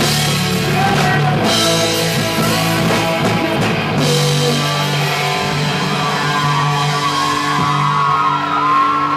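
Punk rock band playing live: distorted electric guitars and drum kit. About four seconds in the cymbal wash drops away and held guitar chords ring on.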